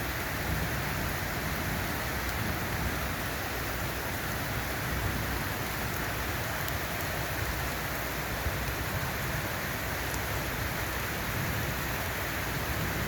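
Steady rain falling, an even hiss without pause.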